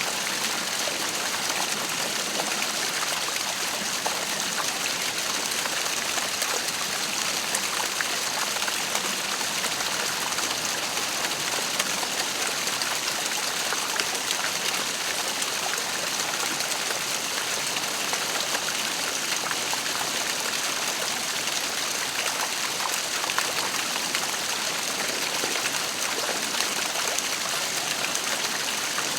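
Waterfall: a steady rush of falling water, with small splashes scattered through it.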